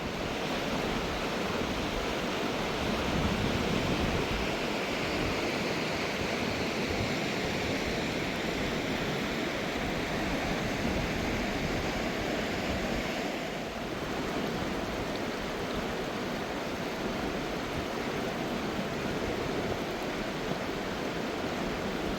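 Mountain river water rushing steadily, with a dense hiss and no tones. About two-thirds of the way through, the upper part of the hiss drops back slightly.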